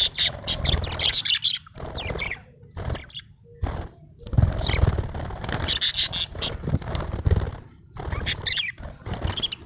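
Budgerigar chirping and warbling in quick bursts separated by short pauses, with low thumps or rustling beneath the louder bursts.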